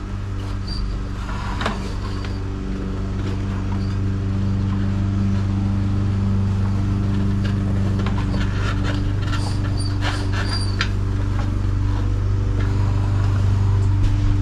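A steady low mechanical hum runs throughout, with scattered light clicks and taps from hand work on the wheel.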